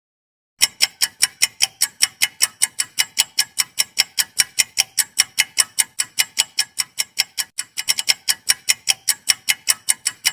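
Clock-ticking sound effect, a fast even tick of about five a second, starting about half a second in: a quiz countdown timer.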